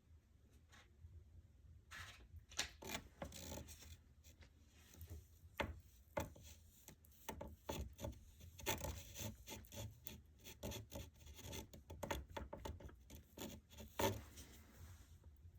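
Rubbing and scraping on wooden molding trim as it is handled and glued, with irregular light taps and one sharper knock near the end.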